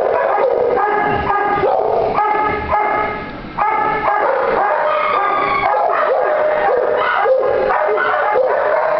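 Many kennelled shelter dogs barking, yipping and howling at once, their calls overlapping without a break.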